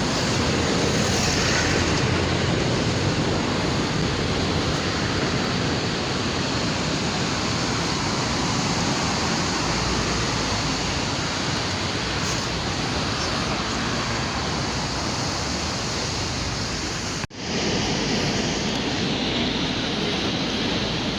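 Ocean surf: waves breaking and washing in a steady, continuous rush. The sound cuts out for a split second near the end.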